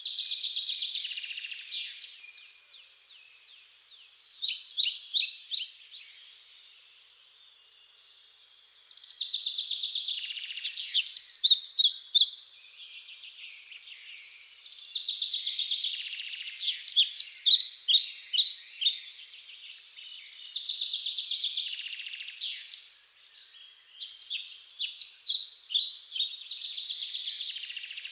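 Songbirds singing: phrases of rapid high trills and chirps, each a few seconds long, repeating about every five seconds with short pauses between them.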